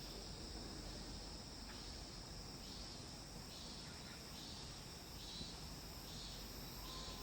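Faint, steady chirring of insects such as crickets, with a soft pulse repeating a little more than once a second over quiet outdoor background noise.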